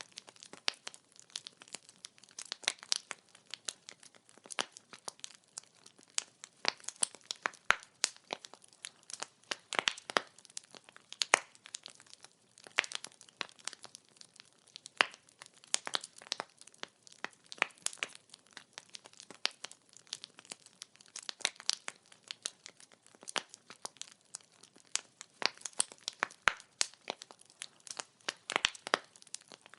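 Wood fire crackling: firewood popping and snapping in dense, irregular clicks over a faint hiss.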